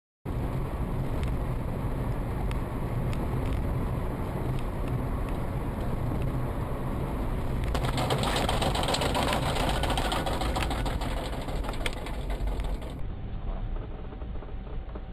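A car's engine and road noise heard from inside the cabin, a steady rumble that grows louder and harsher for a few seconds in the middle, with fine rattling ticks.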